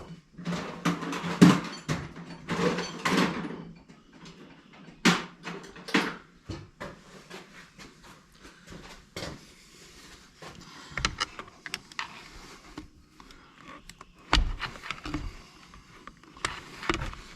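Hand-work noises on a chainsaw: tools and plastic parts scraping, clicking and knocking as a part is worked loose. There is a scraping stretch in the first few seconds and a louder knock about 14 seconds in.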